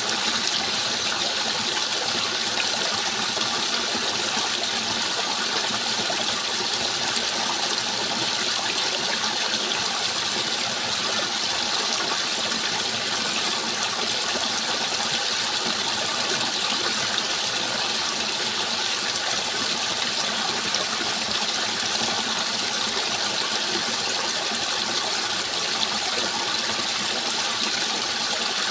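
Steady rushing water, an even hiss with no change throughout.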